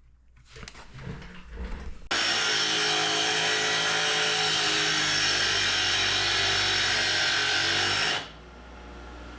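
A motor-driven machine starts abruptly about two seconds in, runs steadily at one unchanging pitch for about six seconds, and cuts off near the end.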